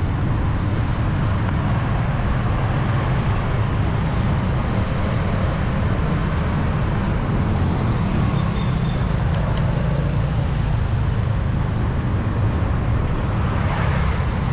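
Steady city street traffic noise, a dense mix of engines and tyres running without a break. A faint thin high tone comes and goes for a few seconds about halfway through.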